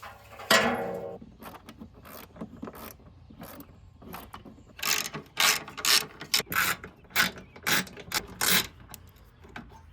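Hand ratchet wrench clicking in short back-and-forth strokes, sparse at first, then about two strokes a second for several seconds. A brief louder sound about half a second in.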